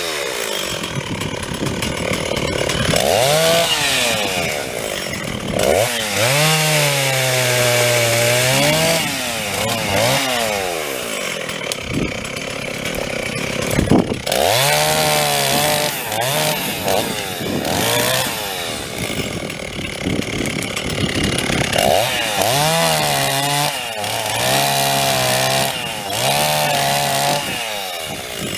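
Stihl two-stroke chainsaw revving and cutting wood in a series of cuts, about eight. On each one the engine pitch climbs to full throttle, sags and holds lower as the chain bites, then falls back between cuts.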